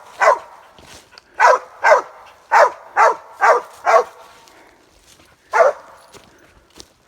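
Squirrel dog barking about eight times in short, uneven chop barks: a tree bark, the dog baying up at a squirrel it has treed.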